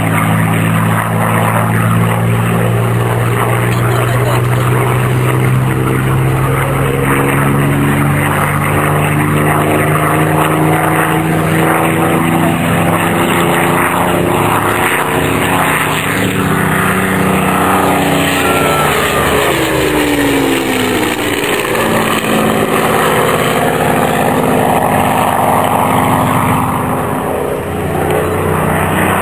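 Piston-engined propeller aircraft droning overhead at an air display, the engine note holding steady and then dropping in pitch as one passes, about twenty seconds in.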